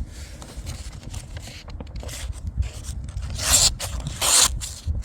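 A freshly sharpened knife slicing through a sheet of paper in a sharpness test, two short rasping swishes about three and a half and four and a quarter seconds in, the blade now cutting cleanly.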